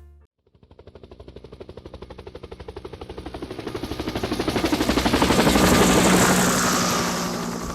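Helicopter rotor chopping in a rapid, even beat, growing louder over about five seconds as the helicopter approaches, then easing slightly near the end.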